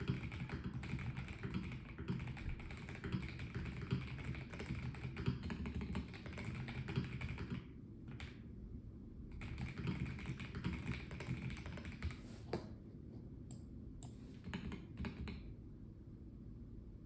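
Typing on a Melgeek Mojo84 plastic-case mechanical keyboard: a fast, steady run of keystrokes, a short pause, another run, then a few scattered key presses that stop a couple of seconds before the end.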